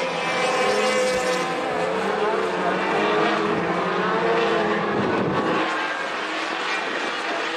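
Several sport truck racing engines running together on the track, overlapping at slightly different pitches, with a pitch rising and falling about five seconds in as one passes.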